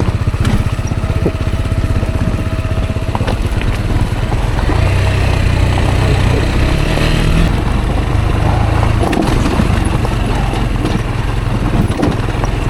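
Rieju Aventura 125's single-cylinder 125 cc engine running while the motorcycle rides off-road. The engine note rises and strengthens about halfway through, then settles. A few sharp knocks come from the bike over rough ground.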